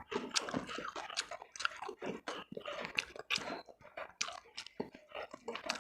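A person chewing food with many short, irregular crunches.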